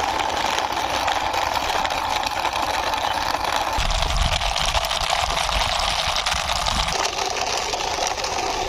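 Plastic toy vehicle wheels rolling with a dense, steady rattle that turns heavier and more rumbling about four seconds in, then lighter again near seven seconds.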